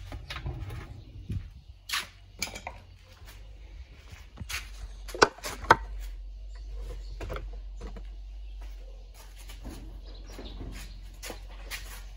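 Scattered clicks, knocks and rattles of washing-machine parts being handled during a teardown, with two sharp knocks about five seconds in, over a steady low hum.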